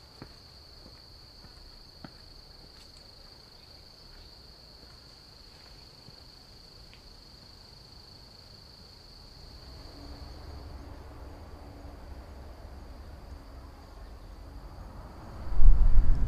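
Steady high-pitched insect drone, which fades out about ten seconds in. Wind then builds on the microphone and buffets it loudly near the end.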